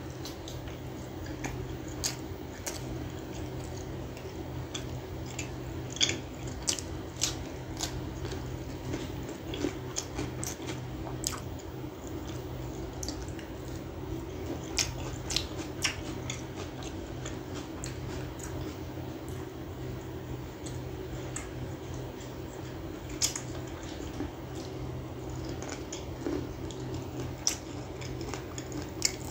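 Close-miked mouth sounds of a person eating soft food by hand, butter naan with chicken gravy: wet chewing, lip-smacking and finger-licking, heard as irregular sharp clicks over a steady low hum.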